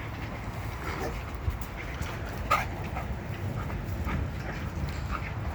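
Dogs giving short whines and yips during rough play in a pack, a handful of brief scattered cries over a steady low rumble, the clearest about halfway through.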